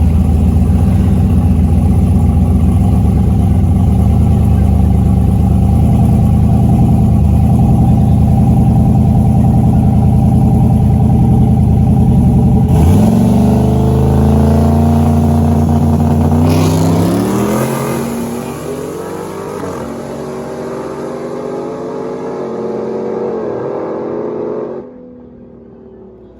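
Drag-racing engines held loud at steady high revs, then accelerating hard with pitch rising through the gears and fading as the vehicles pull away down the track. The sound drops off abruptly about a second before the end.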